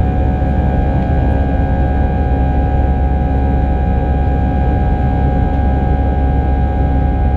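Steady jet drone of an Airbus A319 heard inside the cabin: a heavy low rumble with several held whining tones from the engines over airflow hiss, unchanging throughout.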